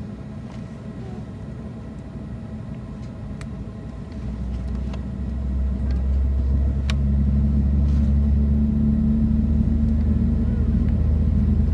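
Low rumble inside a jet airliner's cabin on the ground, swelling about four seconds in and then holding steady and louder with a low hum.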